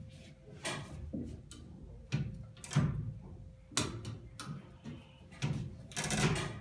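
Irregular metallic clunks and knocks, about six of them, from a hoist being worked one click at a time to lift and roll a boat hull.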